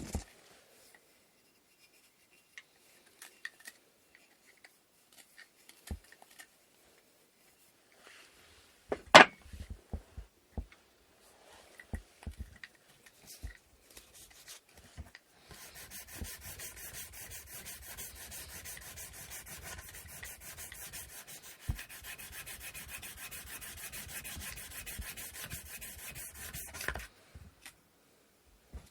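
Wooden inkle loom parts being hand-sanded with sandpaper: rapid back-and-forth strokes for about eleven seconds in the second half, stopping shortly before the end. Before that come scattered knocks and clicks of wooden parts being handled, the loudest a single sharp knock about nine seconds in.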